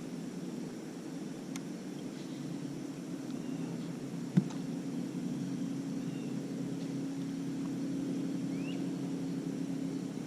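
A steady low engine drone with a few held tones, getting slightly louder in the second half, and a single sharp click about four seconds in.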